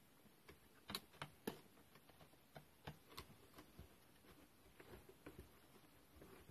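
Faint, scattered clicks and light taps of hand tools and parts being handled as a petrol grass strimmer is dismantled, with a few sharper knocks about a second in.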